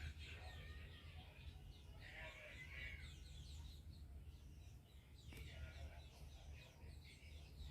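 Faint chirping of small birds, many short quick notes throughout, over a low steady background hum.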